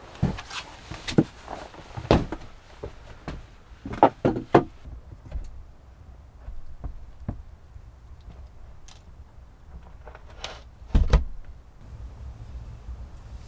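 A series of separate knocks and thumps, several in quick succession about four seconds in and a heavier double thump about eleven seconds in, as of things being handled and set down.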